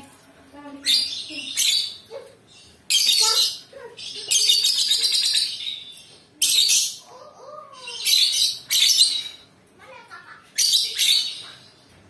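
Lovebird chattering in high-pitched bursts, about six of them, each half a second to a second long, with short pauses between.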